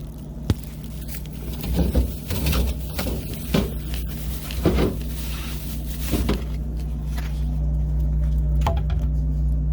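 A string of short knocks and rustles, like things being handled and moved about, over a steady low hum that grows slightly louder.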